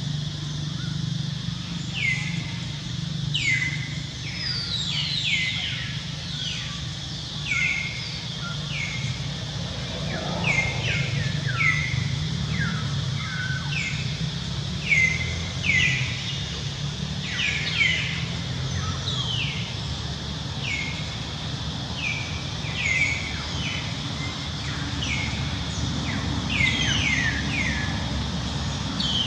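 Birds calling over and over, short chirps that each drop in pitch, over a steady low rumble of outdoor background noise.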